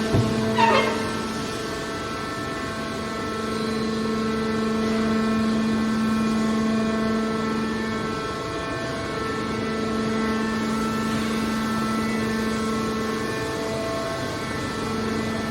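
Hydraulic scrap steel baler's pump and motor running with a steady hum and whine, and a short screech near the start.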